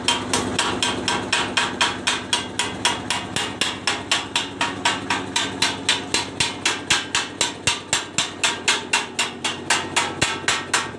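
Hammer blows on metal in a fast, even rhythm of about four strikes a second, each with a short metallic ring, as the tractor chassis is worked.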